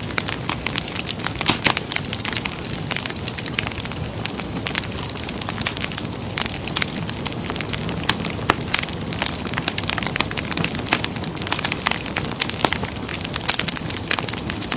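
Wood fire in a fireplace crackling, a dense run of irregular pops and snaps over a steady soft hiss.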